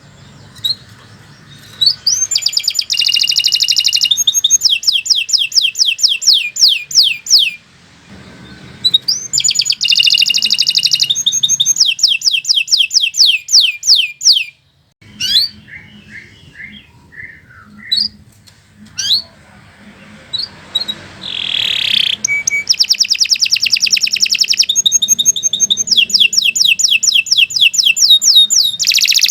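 Domestic canary singing in long phrases of fast repeated notes and rolling trills, broken by a few short pauses and a stretch of softer, separate notes midway, then singing without a break near the end.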